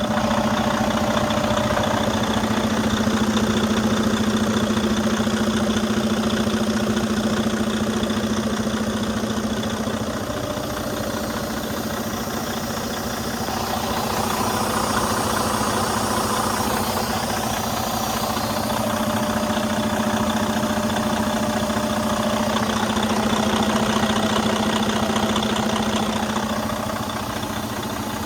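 Detroit DD13 diesel engine of a Freightliner M2 water truck idling steadily, a constant hum with no revving.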